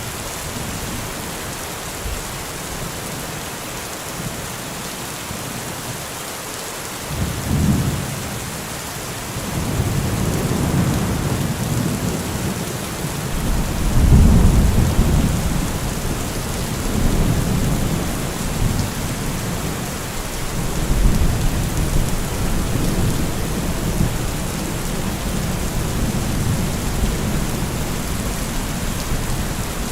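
Heavy, steady rain hiss. Deep low rumbling swells come in about seven seconds in and are loudest around halfway through.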